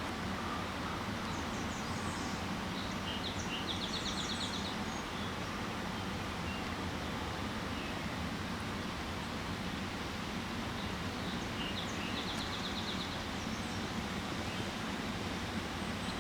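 A songbird sings twice, each song a few high notes ending in a fast, even trill, over a steady rushing background noise.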